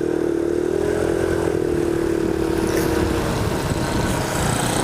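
Small motorbike engine running at a steady cruising speed, its note wavering slightly, with wind and road noise.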